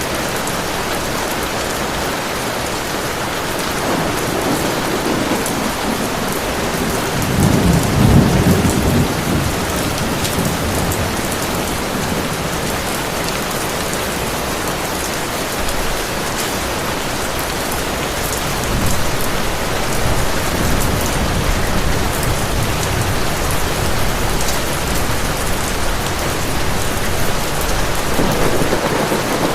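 Heavy rain falling steadily, with low rolls of thunder swelling and fading several times, the loudest about eight seconds in.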